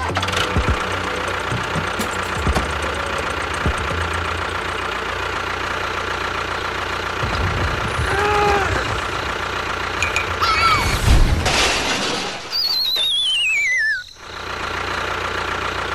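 A vehicle engine running steadily, with a few short squeaky calls about halfway through, then a wavering whistle that slides steeply downward for about a second and a half before cutting off, after which the engine hum carries on.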